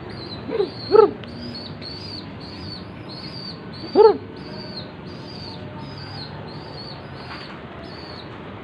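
Young domestic pigeons calling: a short squeaky call about a second in, with a fainter one just before it, and another about four seconds in. Behind them runs a steady series of high chirps, about two a second.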